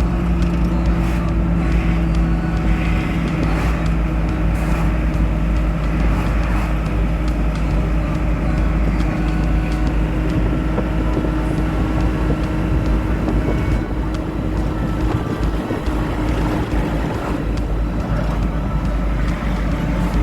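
A car in motion: steady engine and road noise with a low hum, no sharp events.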